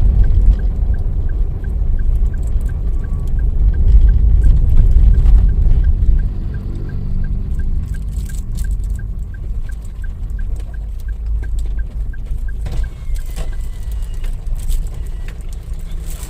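Car driving, heard from inside the cabin: a low engine and road rumble that eases off about six seconds in as the car slows. A regular light ticking, about three times a second, runs through most of it and stops near the end.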